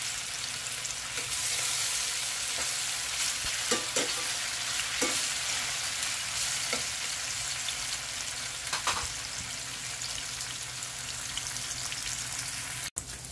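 Cubes of firm tofu sizzling as they fry in hot oil in a stainless steel pan: a steady hiss with a few brief clicks.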